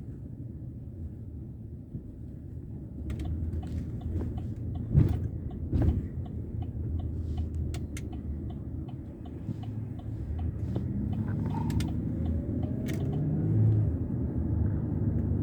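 Wind rumbling on the microphone during a sandstorm. Scattered light clicks join it after a few seconds, and two louder knocks come about five and six seconds in.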